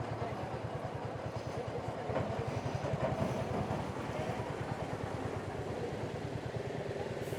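Royal Enfield Hunter 350's single-cylinder engine running at low, steady revs, its exhaust beats evenly spaced.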